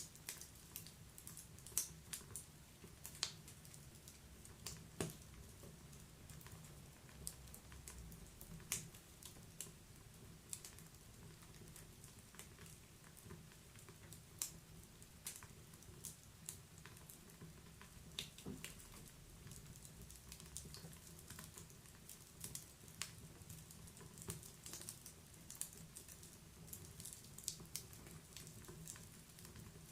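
Wood fire crackling in a fireplace: irregular sharp pops and snaps of burning firewood over a soft steady low rumble of the flames.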